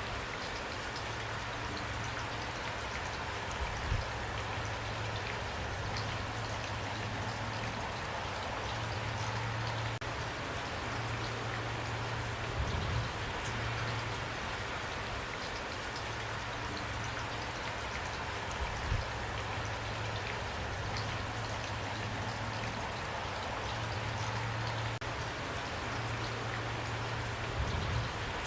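Steady rain falling, with a few louder drop hits scattered through it and a low hum that comes and goes.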